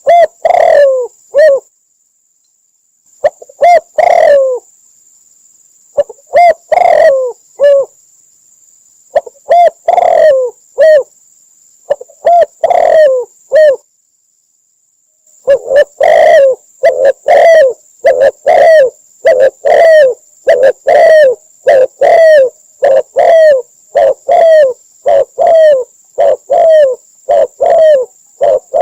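Spotted dove cooing: short, deep coo phrases repeated over and over, broken by two gaps of dead silence, then running on without a break at about one and a half coos a second. A faint steady high whine runs beneath the calls.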